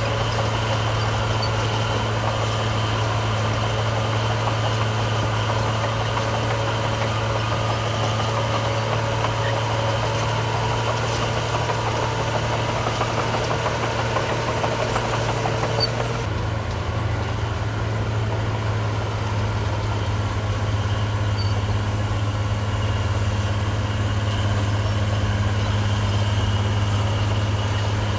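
Heavy diesel engine of earthmoving equipment running steadily, low and unchanging in level; about two-thirds of the way through the higher-pitched part of the sound drops away abruptly while the low engine hum continues.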